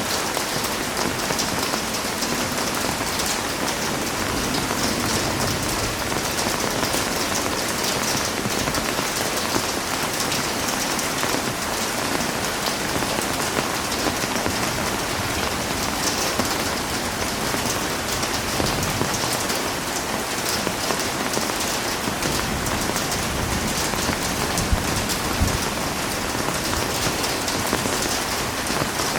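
Heavy rain falling steadily, a dense even hiss of drops spattering on surfaces.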